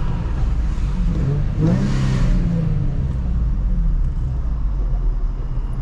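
Nissan 350Z's VQ35 V6 engine revving, its pitch rising and falling as the car is driven in a drift. There is a short rush of noise about two seconds in.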